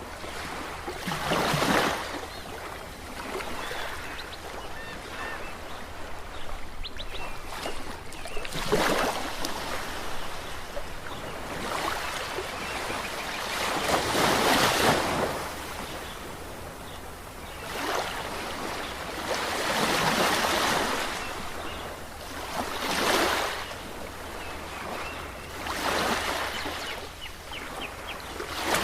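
Ocean waves breaking and washing onto the shore, a surge of surf rising and fading every few seconds.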